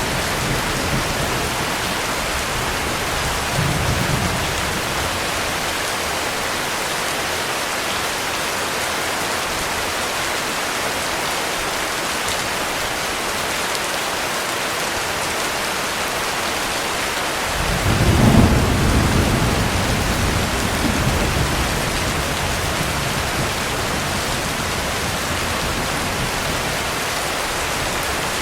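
Steady heavy rain, with a low roll of thunder swelling up about two-thirds of the way through and rumbling away over several seconds; a fainter low rumble comes a few seconds in.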